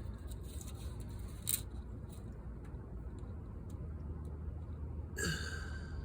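Light clicks and scratches of hand work on a window screen over a steady low hum, with one sharp click about a second and a half in and a short squeak near the end.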